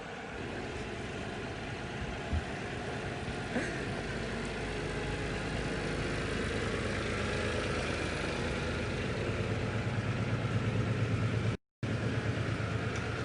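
Farm tractor engine running steadily, slowly growing louder; the sound drops out completely for a moment near the end.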